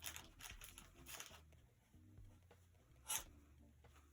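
Near silence with faint rubbing and scratching from art supplies being handled, and one brief louder scrape about three seconds in.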